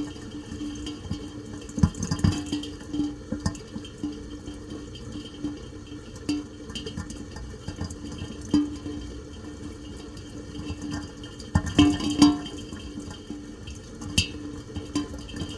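Rain, with drops striking a surface in irregular sharp ticks over a steady wash; clusters of louder hits come about two seconds in and again near twelve seconds.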